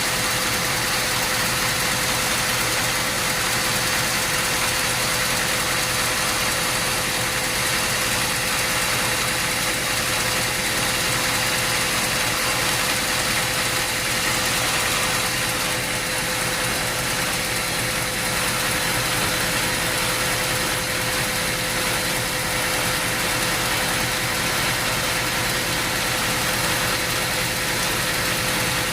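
Sawmill machinery running steadily: an even engine-like hum with a constant held tone over a noisy hiss, unchanging in level throughout.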